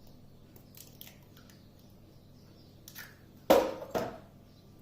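Two sharp kitchen knocks, the first louder with a short ringing tail about three and a half seconds in and a second half a second later, as an egg is added to a mixing bowl, over faint clicks of hand-mixing.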